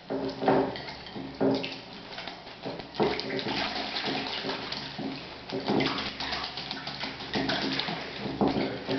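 A small pet bird bathing, splashing and flicking water in quick repeated bouts, busiest in the middle.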